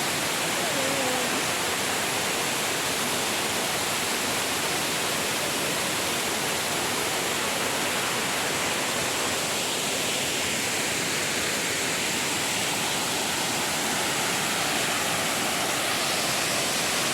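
Waterfall rushing steadily, an even, unchanging roar of falling water.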